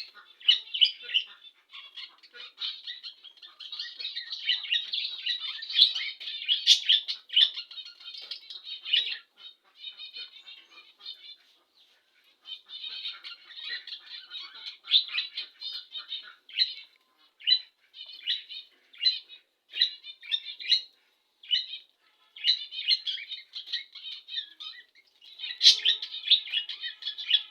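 Budgerigars chattering and warbling: several birds calling at once in quick high squawks and chirps, with a short lull about eleven seconds in.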